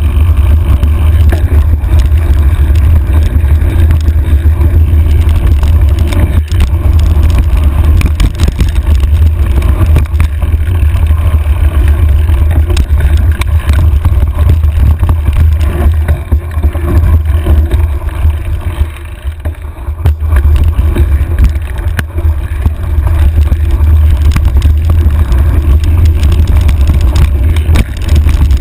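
Heavy wind buffeting on a handlebar-mounted camera's microphone while riding a trail, with frequent knocks and rattles from the bike over rough ground. The rumble eases briefly about two-thirds of the way through.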